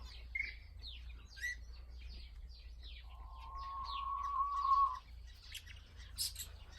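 Cage birds chirping rapidly over one another in quick high notes, with one long, steady whistled note about three seconds in that swells and stops near the five-second mark.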